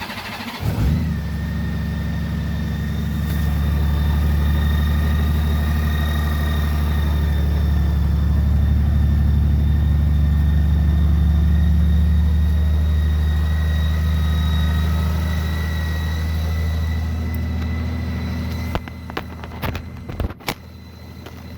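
Honda GL1800 Gold Wing's flat-six engine started from cold, catching about a second in and then idling steadily, with a faint steady high whine over the idle. A few sharp clicks and knocks near the end.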